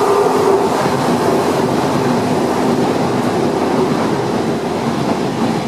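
Electric passenger train passing close by at speed: a steady rush and rumble of wheels on the rails with a low, even hum running through it.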